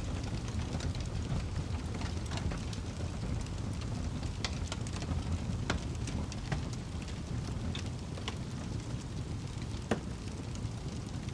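Fireplace fire crackling: a steady low rumble of flames with scattered sharp pops, the sharpest about ten seconds in.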